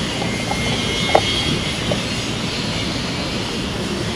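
Steady road traffic noise, a low rumble of passing vehicles, with a brief sharp sound about a second in.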